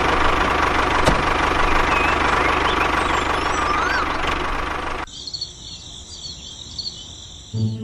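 A small engine running steadily, with birds chirping over it. The engine sound cuts off abruptly about five seconds in, leaving quieter high-pitched chirping.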